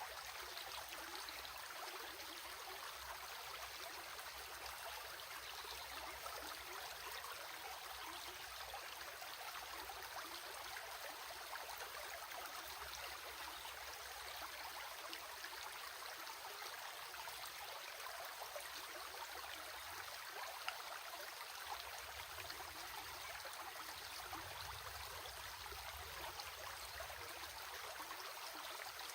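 Stream water flowing steadily, an even rushing and babbling.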